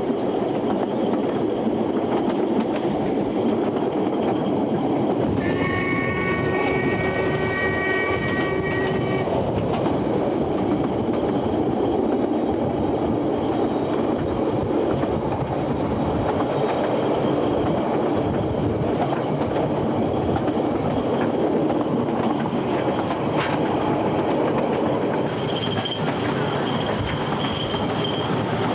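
Steady running noise of a narrow-gauge train heard from on board. A few seconds in, the train's whistle sounds one chord for about four seconds. Near the end, high wheel squeal comes and goes.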